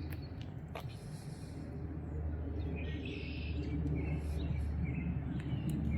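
Wind rumbling on the microphone, growing stronger after about two seconds, with songbirds giving short chirps and trills over it.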